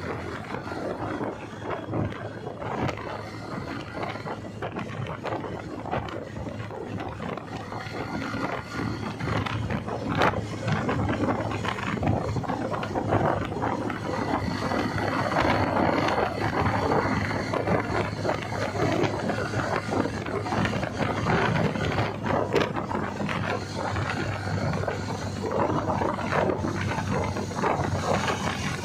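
Motorcycle running on the move, its engine under heavy wind noise buffeting the microphone.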